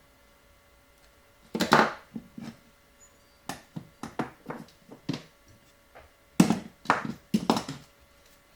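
Irregular clicks and knocks of jewellery pliers and wire cutters being handled and set down on a work surface while wrapping gold wire, with a few louder knocks about a second and a half in and again near the end.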